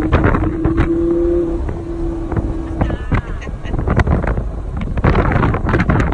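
Audi R8 V10 on the move, wind buffeting the microphone over the road and engine noise, with a steady hum through the first three seconds.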